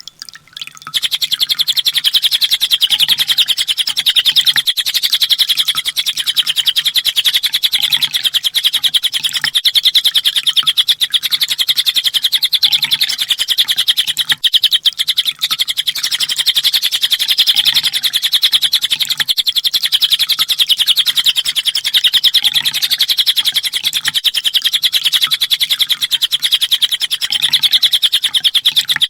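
Kolibri ninja sunbird singing a long, unbroken stream of very rapid, high chips and trills, after a brief break at the very start.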